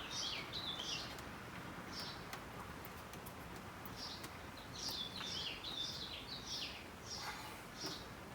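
Small bird chirping: short, high notes that drop in pitch, in quick runs near the start and again from about four to seven seconds in.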